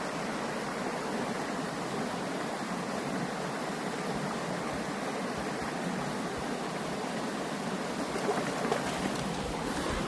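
Rushing water of a creek, a steady even noise. A few faint knocks sound near the end.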